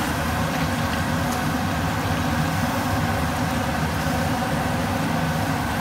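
Steady hum with a sizzling hiss over it from a wok of squid, prawns and fried potatoes cooking on a gas burner, as lemon juice is squeezed in.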